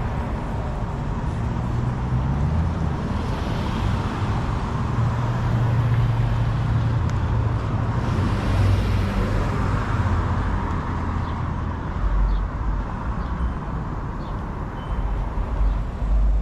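Motor vehicle engine running, a low hum that climbs in pitch about two to three seconds in and is loudest midway, over traffic noise.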